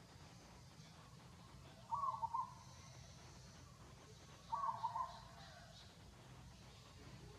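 A short, choppy hooting call, repeated twice about two and a half seconds apart, over a faint steady low hum.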